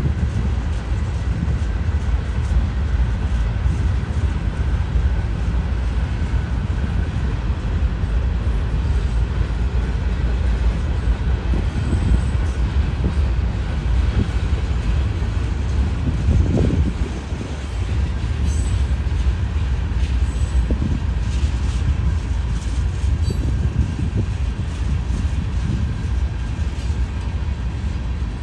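Norfolk Southern freight train's cars rolling past close by: a steady, heavy rumble of steel wheels on rail, with faint high squeals now and then.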